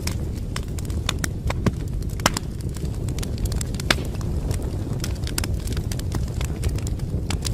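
Fire in a fireplace crackling: irregular sharp snaps and pops over a steady low rumble of the flames.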